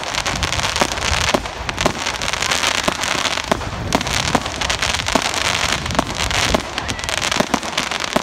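Fireworks going off in a dense run: continuous crackling with many sharp bangs, several a second.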